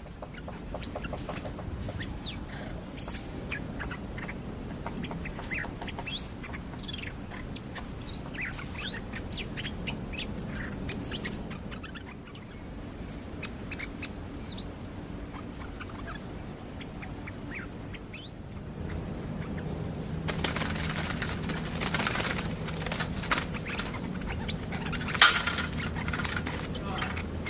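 Small songbirds calling in quick, sweeping chirps for the first half, then from about two-thirds in a bird's wings beating against a cage, which rattles and shakes, with one sharp knock near the end.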